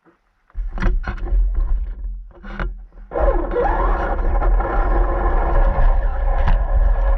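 Radio-controlled car being driven, heard up close: heavy rumble with several sharp knocks, then from about three seconds in a steady, dense running sound.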